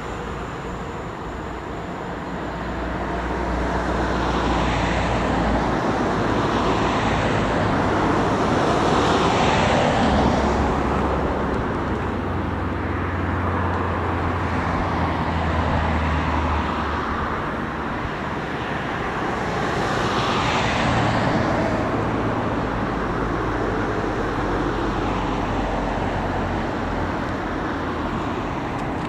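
Road traffic: cars passing one after another over the crossing, with a steady engine hum and tyre noise that swells and fades with each pass.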